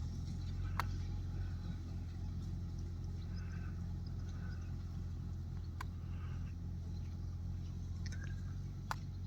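Tractor engine running at a steady low drone, with three sharp clicks or knocks over it.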